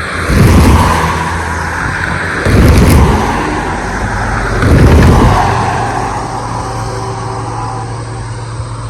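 Nathan K5HL five-chime air horn on a CN GE Evolution-series (GEVO) locomotive sounding three loud blasts about two seconds apart, over the steady low rumble of the diesel locomotive.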